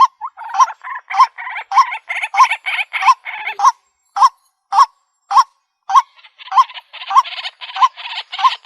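White-breasted waterhen calling: a loud, sharp note repeated nearly twice a second. A denser, harsher chatter fills in under it for a couple of seconds near the start and builds again in the last couple of seconds.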